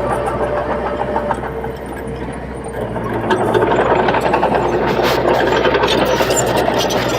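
Diesel engine of a Komatsu D21P small bulldozer running while it pushes soil. It eases off briefly about two seconds in, then picks up again about three seconds in, with rattling clatter over the engine.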